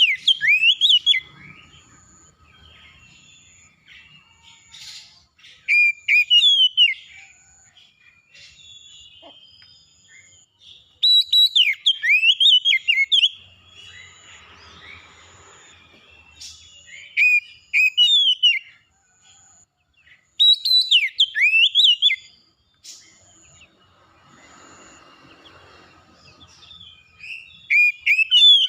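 A songbird singing loud, clear whistled phrases full of quick up-and-down glides, about six bursts a few seconds apart. A faint, short high note repeats about once a second underneath.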